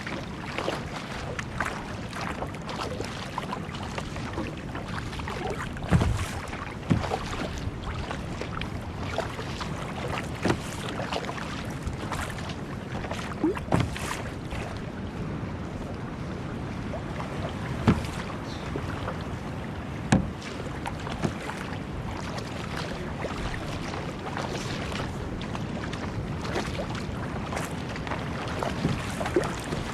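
Water sloshing against a kayak hull at sea, with wind on the microphone and a few sharp knocks against the hull or gear now and then.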